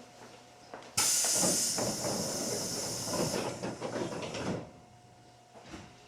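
Hankyu 7300 series train at a station stop: a sudden loud hiss of compressed air lasting about three and a half seconds, typical of the pneumatic door engines opening the doors.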